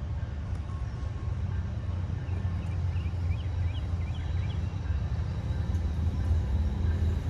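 Low, steady engine rumble that grows gradually louder.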